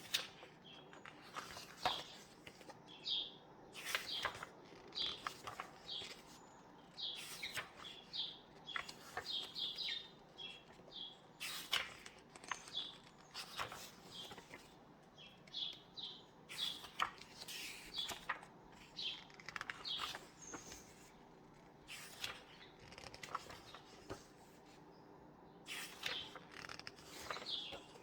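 Small birds chirping and twittering, with the rustle and crackle of paper pages being handled and turned now and then.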